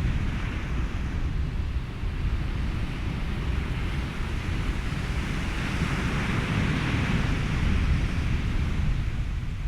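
Ocean surf and wind blended into a steady noise bed with a deep rumble. A wave swells and washes through from about halfway in, easing off near the end.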